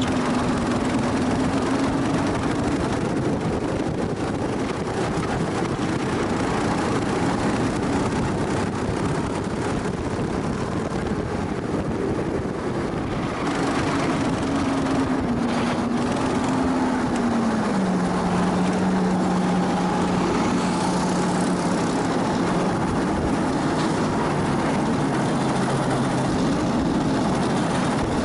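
Go-kart engine running under way, heard onboard over steady wind and track noise; its pitch wavers up and down and steps lower about two-thirds of the way through, then lower again near the end.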